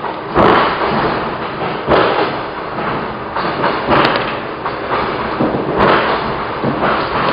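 Suburban electric train carriage in motion: a steady running noise with a loud thud every one to two seconds.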